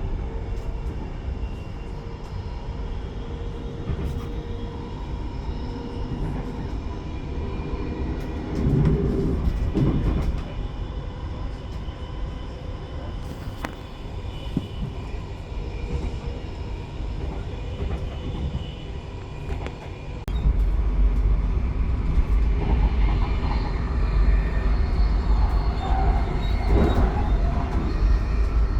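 Passenger train running along the track: a steady rumble with rattles and faint squeals. A brief louder patch comes about nine seconds in, and about twenty seconds in the low rumble steps up and stays louder.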